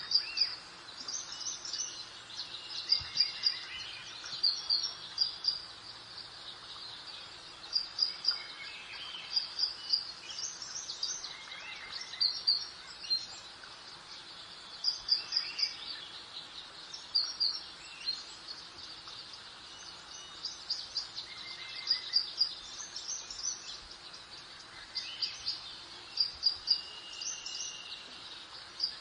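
Several songbirds singing, with short high chirps and trills repeating every second or two and a few lower whistled phrases, over a steady soft breeze.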